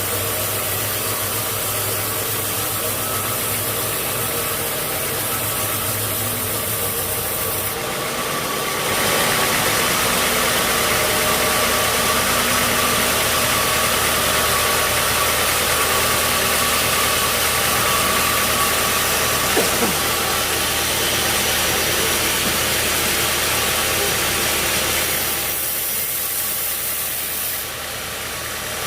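Sawmill machinery running steadily with an engine-like hum. The noise swells and brightens about nine seconds in, eases briefly near the end, then comes back up.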